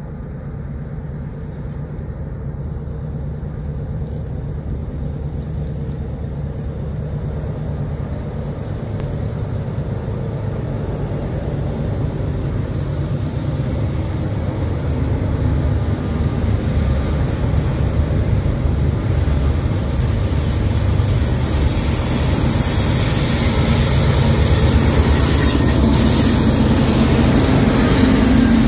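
A freight train's lead diesel locomotives, a Norfolk Southern Dash 9 followed by a Canadian Pacific GEVO and an AC44, rumble steadily as they approach, growing louder throughout. As the units draw level near the end, a hiss from the wheels and train rises and a steady engine tone comes up.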